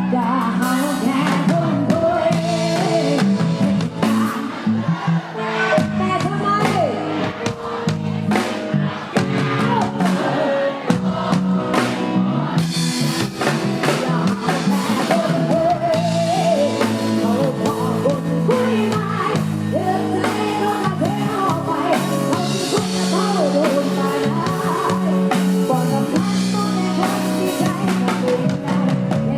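Loud live Isan band music with drum kit and a wavering melodic lead, with singing.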